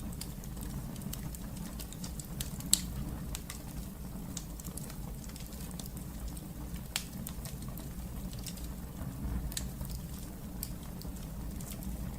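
Wood fire burning in a fireplace: a steady low rumble of the flames with irregular crackles, and a louder sharp pop a little under three seconds in and another at about seven seconds.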